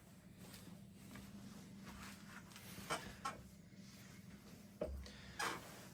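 1985 Casablanca Panama ceiling fan running on low speed, a faint steady hum, with a few short clicks: two near the middle and two more near the end.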